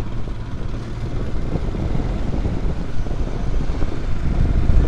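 Royal Enfield Scram 411's single-cylinder engine running steadily under way, with a low rumble and rushing wind noise on a helmet-mounted camera.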